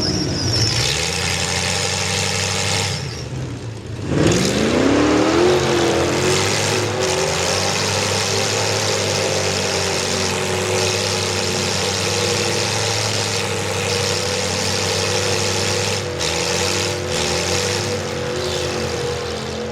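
Mega mud truck's V8 engine with open headers revving hard. The revs drop about three seconds in, then climb sharply and are held high and steady.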